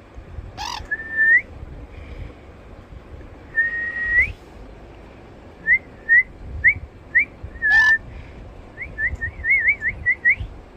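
Sun conure giving two loud, harsh screeches, about a second in and again near the end, amid a run of clear whistled notes: first a couple of held whistles that turn up at the end, then a string of short upward-flicking whistles that come faster toward the end.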